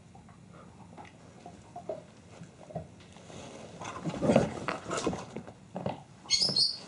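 Pet dog barking a few times in the second half, after a quiet start.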